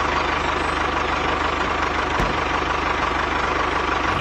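An engine running steadily at idle, with a fast, even low knocking pulse.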